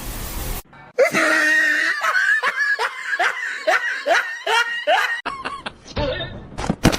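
A person laughing in a quick run of short, evenly spaced bursts, about three a second, for some four seconds.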